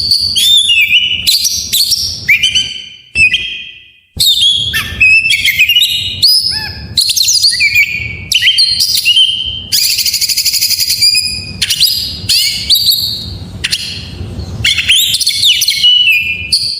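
Oriental magpie-robin (kacer) singing a dense, fast, varied song of clear whistles, slurred chirps and trills, packed with mimicked 'isian' phrases. There is a harsh, buzzy rattle about ten seconds in, and a brief break in the song a little before four seconds.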